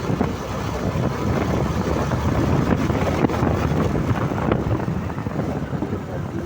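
Motorcycle being ridden, with wind rushing over the microphone and the engine running steadily underneath; the bike is a Hero Karizma ZMR.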